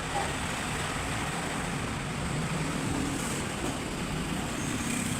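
Steady mechanical rumble with a hiss over it, with no distinct knocks or clicks.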